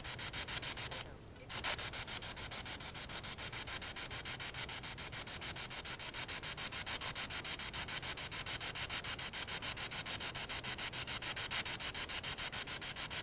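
Spirit box (ghost box) radio sweeping through stations: a steady hiss of static chopped into fast, even pulses, with a brief quieter gap about a second in.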